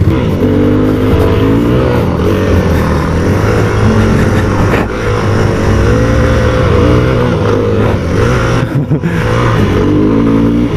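Yamaha WR250F's single-cylinder four-stroke engine revving hard and falling back over and over as the dirt bike is ridden through a short track section, its pitch rising and falling with the throttle and gear changes. The throttle briefly chops off near the end.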